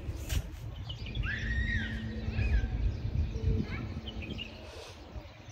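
A bird calling outdoors: about a second in, one whistled call rises and then holds for under a second, and a few shorter chirps follow. A low rumble runs underneath throughout.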